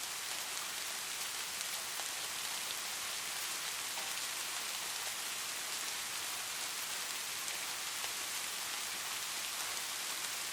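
Light rain falling steadily, an even hiss of many small drops with faint individual patters.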